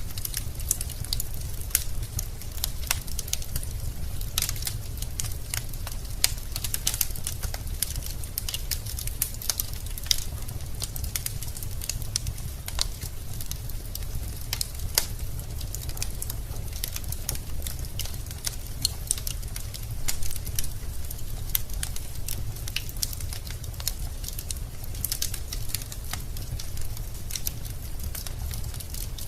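Wood fire burning in a fireplace: a steady low rumble of flames with many irregular crackles and pops from the burning logs.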